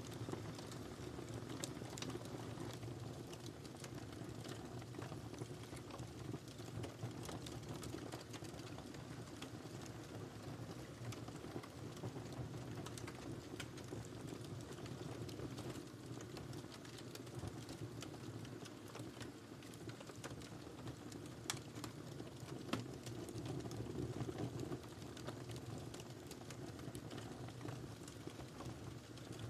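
Wood fire burning in a fireplace: a steady low rush of flames with frequent small crackles and pops, two sharper pops about two-thirds of the way through.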